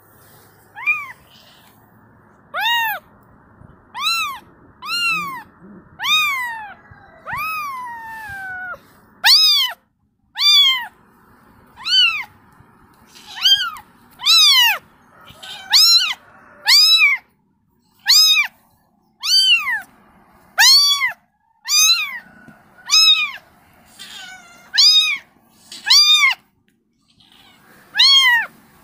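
Kitten meowing over and over, calling for its mother: short high-pitched meows about once a second, each rising and then falling in pitch, a few longer ones trailing down early on.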